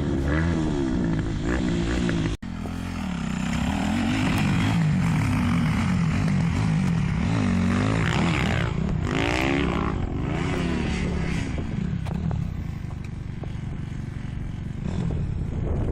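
Kawasaki KX250F four-stroke single-cylinder motocross engine revving hard, its pitch rising and falling again and again as it is worked on the throttle and through the gears. The sound breaks off abruptly for an instant about two and a half seconds in.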